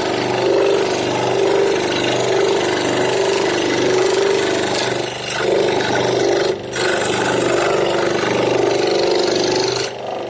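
A power tool working wood, running steadily with a held note that swells and eases about once a second as it meets the work. It breaks off briefly just past the middle and stops near the end.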